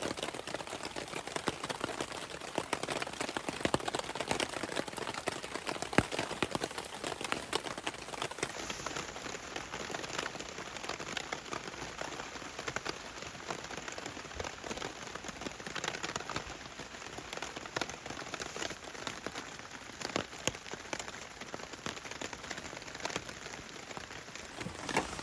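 Rain falling steadily, countless drops striking close by in a dense, even patter, with one sharper drop hit about six seconds in.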